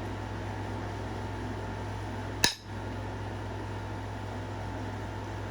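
One sharp click about halfway through as a flake breaks off a stone point being flintknapped, removing part of a raised 'island' on its face. A steady hum of room noise runs underneath.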